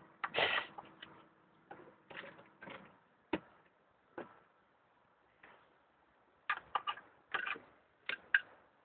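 Irregular light clicks and knocks of hard objects being handled, with short quick runs of clicks near the end.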